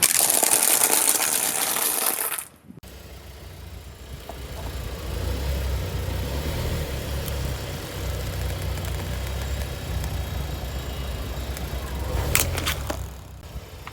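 A loud hiss for about the first two and a half seconds, then a car engine running with a steady low rumble that grows louder as the car closes in, with a few sharp cracks near the end.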